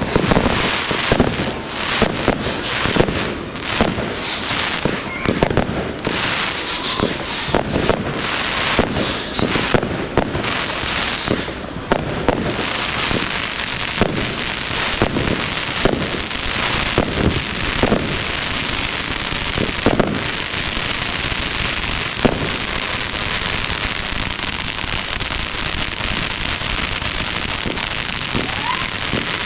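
Fireworks display: rapid bangs of bursting shells over the first twelve seconds or so, then a dense steady crackling hiss with only occasional bangs.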